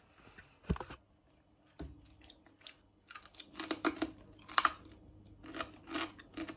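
Crispy roast pork belly crackling being chewed: a run of sharp crunches, several a second, from about three seconds in, after a couple of single clicks.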